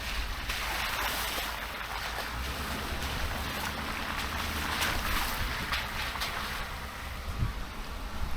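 Truck driving down an icy dirt 4x4 trail: a low engine rumble under a shifting hiss of tyre and trail noise that swells and eases.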